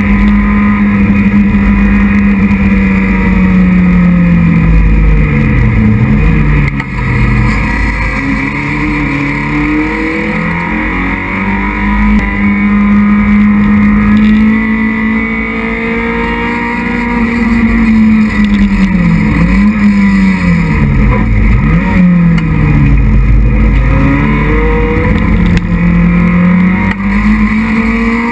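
Racing Citroën Saxo's four-cylinder engine heard from inside the cockpit at racing pace. The revs hold high, fall steeply about six seconds in and twice more around twenty seconds, and climb back each time as the car brakes, changes gear and accelerates.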